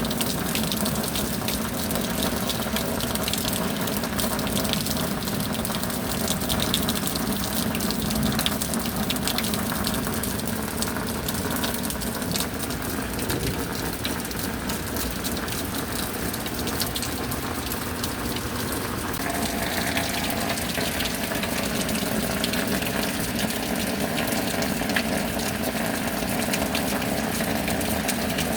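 Steady rain with gushing, running water. The sound changes slightly about two-thirds of the way through but keeps going.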